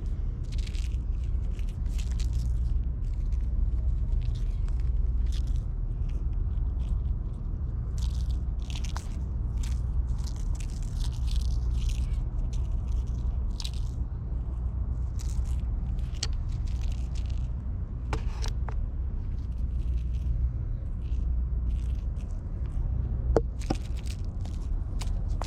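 Irregular scraping and rustling, short scattered strokes with a few sharp clicks near the end, over a steady low rumble.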